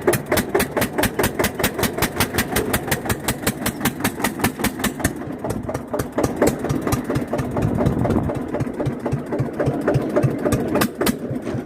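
Eicher 241 tractor's single-cylinder diesel engine running at about idle, an even beat of about six exhaust pulses a second. The sharp edge of the beats softens about five seconds in, leaving a lower thudding pulse.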